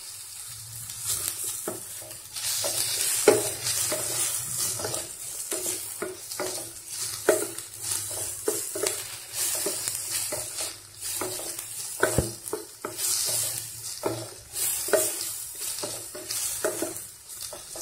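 Chopped tomatoes and onions sizzling in hot oil in a stainless steel pot while a slotted spatula stirs them, scraping and knocking against the steel again and again. The knocks are loudest about 3 seconds in and again about 12 seconds in.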